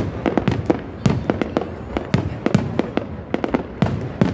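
A fireworks display with shells bursting in rapid, irregular succession: several sharp bangs a second, each followed by a deep boom.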